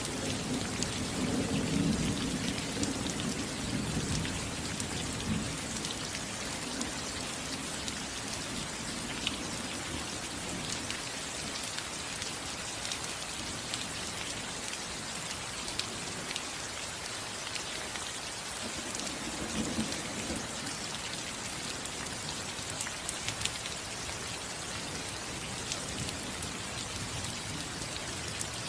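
Steady rain falling on a house roof, a continuous hiss with the ticks of single drops striking. A low rumble of distant thunder swells in the first few seconds and again briefly about two-thirds of the way through.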